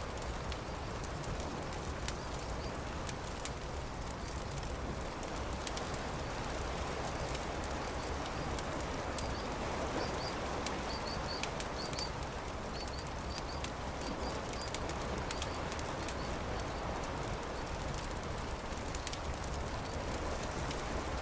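Beach campfire crackling with scattered sharp pops over a steady rushing background, likely surf. Near the middle a bird chirps a run of short high notes.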